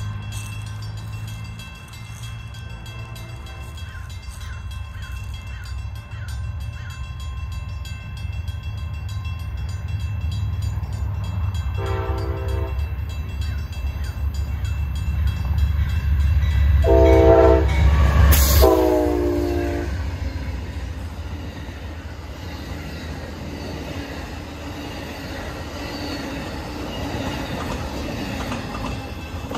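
Train passing a grade crossing, its low rumble building to a peak and then fading as it goes by. The locomotive's air horn sounds several times: faint at first, a short blast, then two loud blasts as it passes, the last one dropping slightly in pitch.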